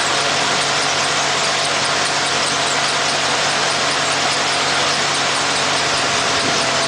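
Boaz mini combine's gas engine running steadily with the thresher engaged while the machine stands still: a loud, even mechanical noise with a steady low hum. The hum shifts slightly near the end.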